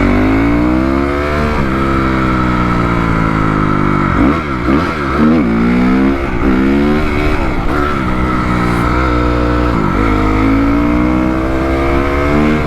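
2004 Honda CRF250R's four-stroke single-cylinder engine running and revving, its pitch climbing and falling with the throttle, with a run of quick throttle blips in the middle and a climb near the end. The engine is down on power, which the owner thinks probably means it needs a top-end rebuild.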